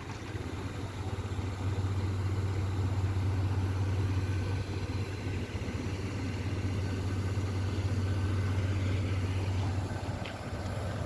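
Motor vehicle engine running steadily, with a low hum under a wash of noise that swells slightly about two seconds in.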